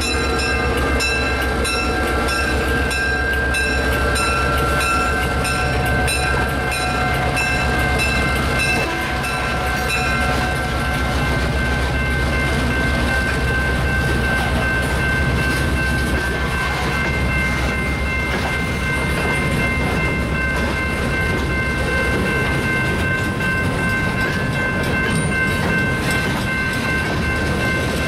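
An EMD GP9 locomotive's two-stroke diesel rumbles past, followed by a string of covered hoppers and gondolas rolling by with steady wheel-on-rail noise. A grade-crossing bell rings steadily over it, with evenly repeated strikes most distinct in the first third.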